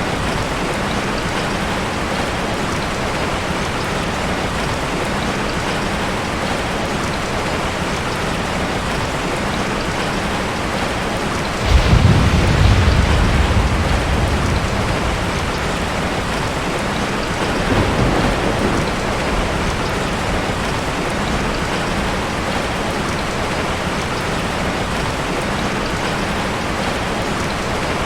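Rain falling steadily, with a sudden clap of thunder a little under halfway through that rumbles away over a few seconds, and a weaker roll of thunder some seconds later.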